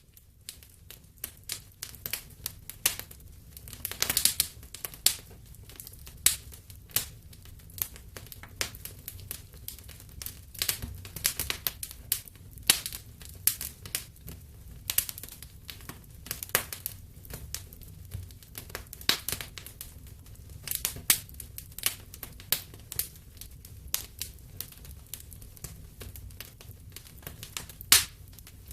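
Wood fire in a fireplace crackling with irregular sharp pops over a low steady rumble. A louder burst of crackles comes about four seconds in and a loud pop near the end.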